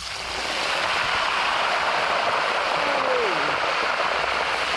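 Chicken leg pieces deep-frying in hot oil: a loud, steady sizzle that starts suddenly.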